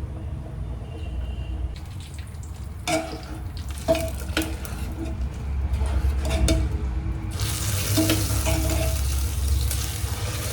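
Kitchen work: metal utensils knocking and clinking with short ringing tones over a low steady rumble, then a loud steady hiss from about seven seconds in that cuts off abruptly at the end.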